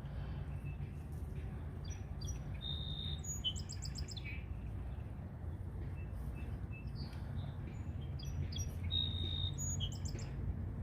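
A songbird singing the same phrase twice, about five seconds apart: a few short notes, a held high whistle, then a quick run of notes. A steady low rumble lies underneath.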